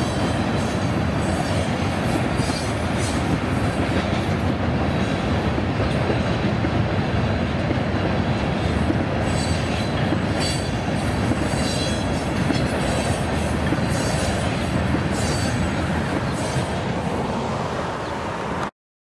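Freight train of tank cars rolling past, a steady rumble of wheels on rail with scattered high wheel squeals; the sound cuts off suddenly near the end.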